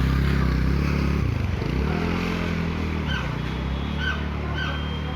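A motor vehicle engine running close by, its pitch dipping and shifting about a second in, then steady again. Three short high-pitched beeps sound over it in the second half.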